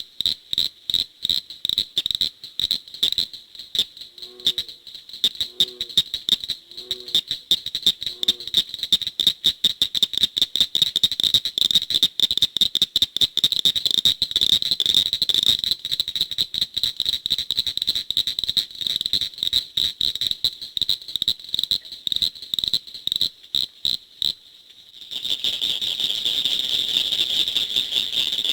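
A chorus of frogs calling: many rapid short high notes overlapping, with four low notes from another frog about four to eight seconds in. About 25 seconds in, the sound abruptly becomes a denser, nearly continuous high trill.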